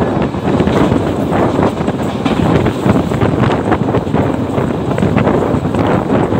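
Wind rushing over the microphone and the rumble and rattle of a passenger train coach running at speed on the rails, steady throughout.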